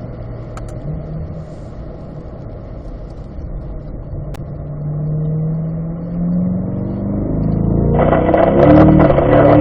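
Chevrolet Corvette V8 heard from inside the car, first running steadily at part throttle, then rising in pitch from about halfway as the car accelerates. It gets much louder about eight seconds in and keeps climbing.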